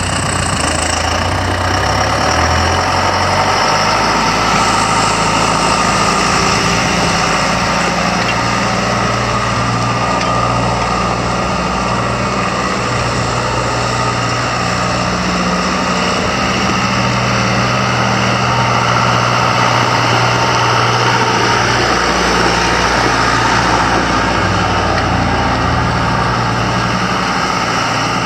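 John Deere 6220 tractor's diesel engine running steadily at a loud, even level, its low engine tone shifting slightly in pitch now and then.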